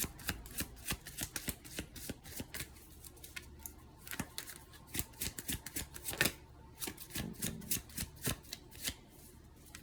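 Tarot cards being shuffled by hand: a rapid, uneven run of crisp card flicks and clicks that eases off briefly twice, with one louder snap about six seconds in.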